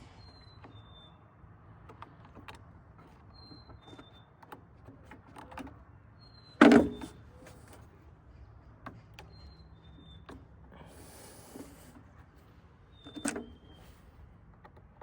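Clicks and knocks of tools and parts being handled during mower maintenance: scattered light clicks, a loud knock about halfway through and another near the end, with a brief rustle shortly before the second knock.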